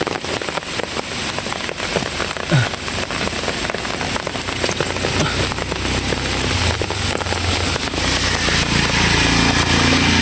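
Heavy rain falling, a dense crackle of drops. From about halfway in, the low hum of an engine grows louder underneath it.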